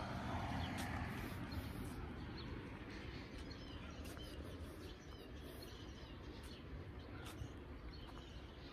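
Birds chirping in short, scattered calls, faint, over a low rumble of wind on the microphone.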